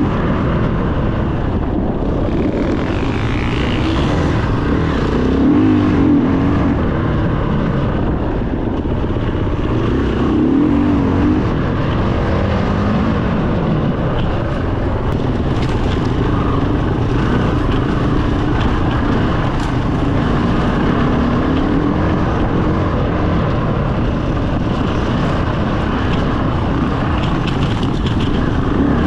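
Enduro dirt bike engine running while being ridden, its pitch rising and falling again and again as the throttle is opened and closed.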